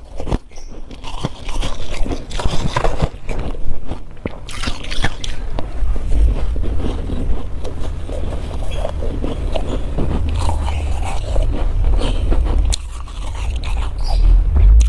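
Crunchy freezer frost being bitten and chewed close to the microphone, mixed with frost being scraped by hand, as dense irregular crunches and crackles. A low rumble joins in about six seconds in.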